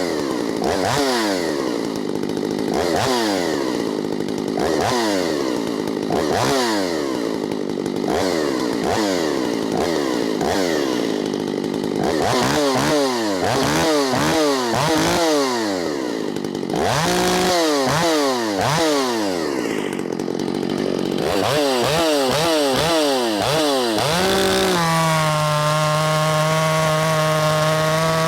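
Shindaiwa 757 two-stroke chainsaw running, its throttle blipped over and over so the engine revs up and falls back about once a second. A few seconds before the end it settles into a steady, even pitch.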